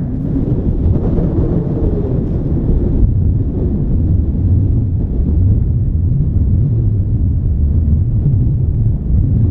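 Strong wind buffeting the microphone over the steady low rumble of farm machinery running.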